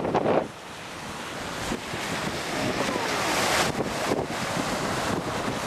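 Storm surf breaking and rushing up the beach, with wind buffeting the microphone. A loud rush cuts off about half a second in, then the wash of a wave builds to a peak a few seconds later.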